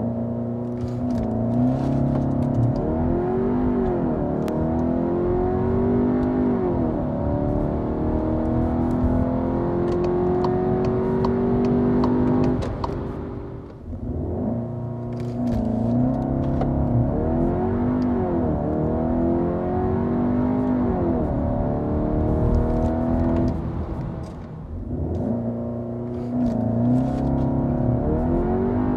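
Skoda Karoq 4x4's engine revved and held at launch-control revs while standing still, the revs wavering up and down. The engine eases off briefly twice, then the car starts to pull away in first gear near the end.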